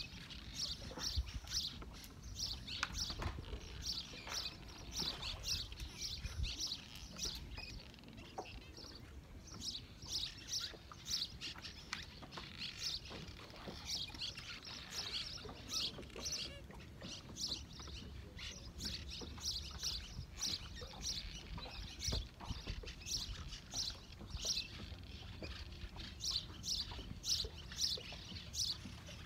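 Small birds chirping continuously, many short high calls a second, over a low steady rumble.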